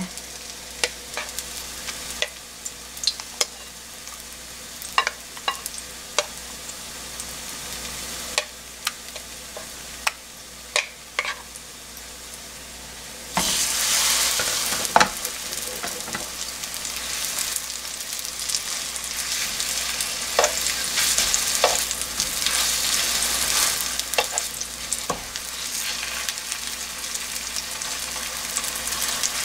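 Oil sizzling in a nonstick frying pan as egg-battered, laver-wrapped crab stick and cheese rolls fry, with scattered light clicks of tongs and a spoon against the pan. About 13 seconds in the sizzle suddenly gets louder as another battered roll goes into the hot oil.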